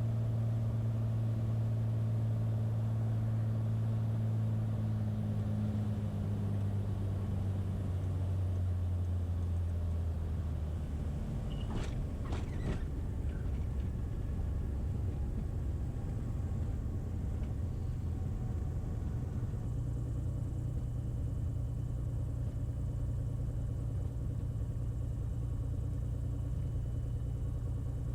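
Beechcraft A36 Bonanza's piston engine and propeller heard from inside the cabin, running steadily on final, then throttled back about ten seconds in for the flare and touchdown. A few brief sharp sounds come around twelve seconds in, and the engine then runs steadily at low power.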